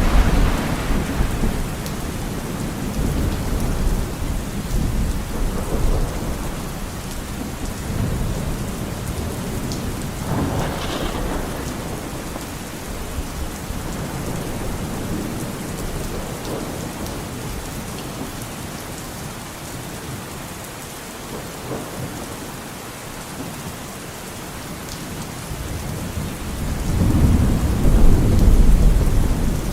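Steady rain with rolling thunder: a rumble dying away over the first few seconds, another about ten seconds in, and a louder one building near the end.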